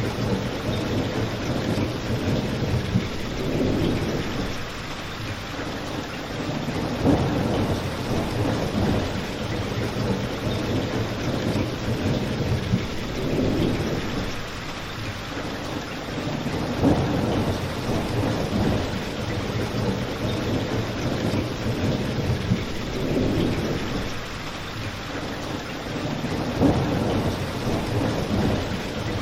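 Steady rain falling outside, with a low rumbling wash that swells and fades every few seconds, and a crackling fireplace giving a few sharp pops.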